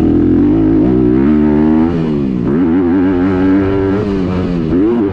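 Honda CRF250R single-cylinder four-stroke dirt bike engine, through its Yoshimura titanium exhaust, revving hard with its pitch rising and falling again and again, dropping sharply about two seconds in.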